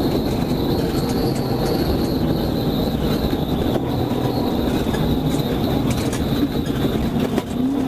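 Steady rumble of a heavy vehicle on the move, with road noise and a few faint clicks.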